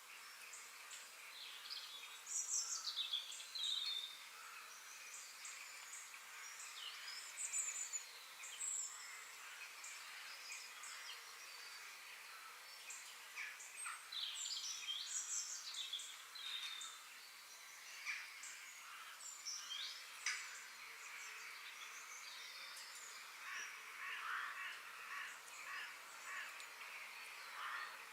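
Several wild birds chirping and whistling in short, overlapping calls over a faint steady hiss of outdoor ambience.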